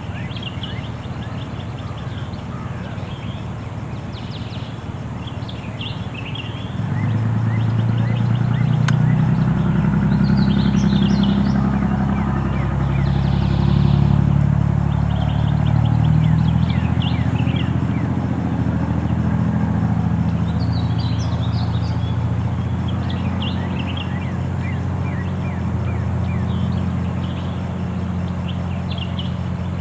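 A vehicle engine comes in about seven seconds in and keeps running, its pitch rising and falling a little. Birds chirp throughout.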